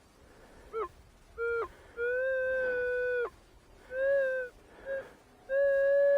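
Metal detector's audio signal as the coil is swept over a buried target: a series of steady beeps of about the same pitch, starting and stopping sharply, mostly short but with two held for over a second. The detectorist takes the target for another piece of steel plate.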